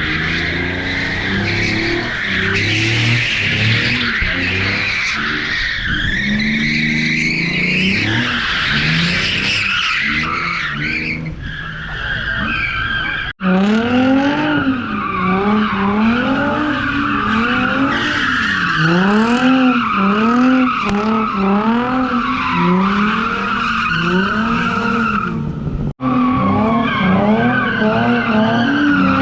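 Car tyres squealing continuously under wheelspin while the engine revs rise and fall over and over, about once a second in the later part. The sound drops out abruptly twice, about halfway and near the end, each time picking up again with the same squealing and revving.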